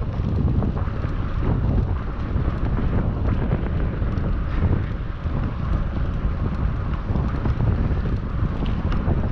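Wind buffeting a GoPro action camera's microphone while riding a bicycle: a steady, loud, low rumble.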